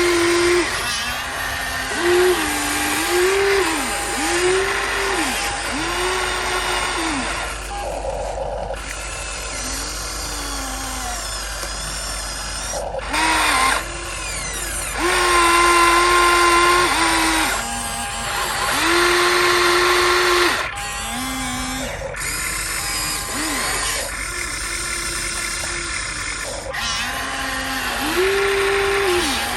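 Small electric motors of a radio-controlled model excavator whining as it works. The pitch ramps up, holds and falls again every second or two, as each movement starts and stops.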